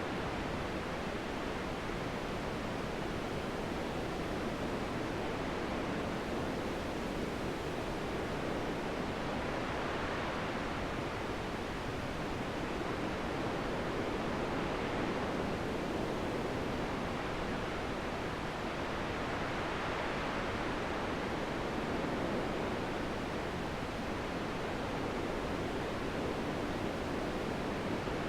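Steady rushing wind, swelling gently every few seconds.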